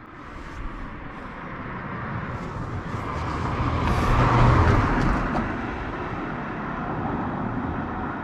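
A road vehicle driving past, its engine and tyre noise building to a peak about four seconds in and then fading away.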